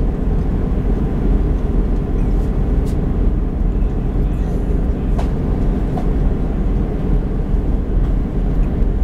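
Steady low rumble of a moving passenger train heard from inside the carriage, with a couple of faint ticks.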